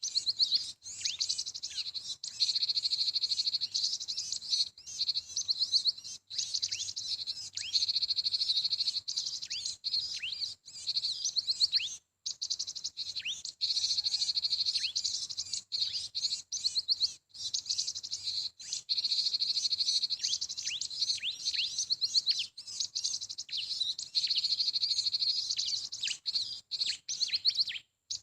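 Small songbirds chirping in dense, rapid runs of high, short notes, broken by a few brief gaps.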